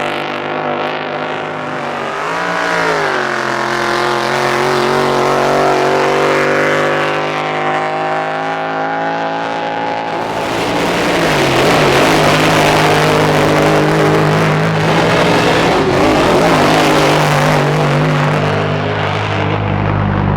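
Drag-boat racing engine running steadily with a brief rev about two seconds in, then louder and rougher with shifting pitch from about ten seconds in.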